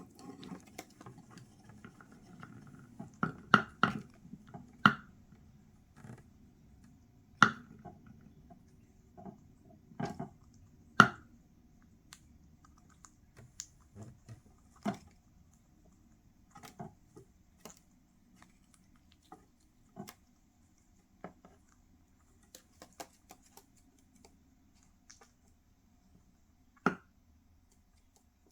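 Quaker parrot biting and gnawing on a cuttlebone: irregular sharp crunching clicks of the beak on the bone, bunched in quick runs with longer gaps between.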